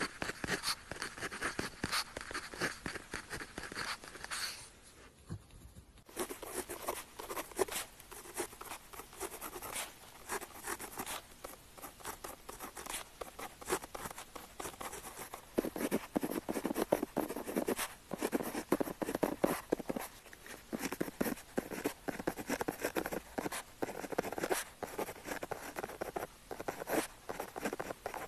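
Pen nib scratching across paper in quick, continuous writing strokes, close up, with a brief pause about five seconds in.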